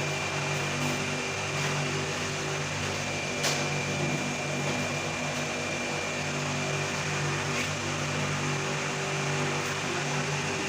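CNC fiber laser cutting machine running: a steady mechanical hum with hiss and a faint high whine, and a single sharp click about three and a half seconds in.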